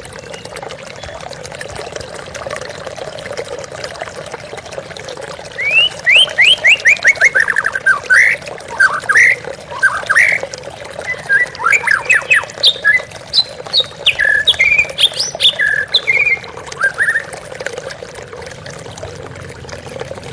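Flowing water running steadily, with a white-rumped shama singing over it from about six seconds in: loud, quick phrases of whistled notes, sweeps and trills that stop a few seconds before the end.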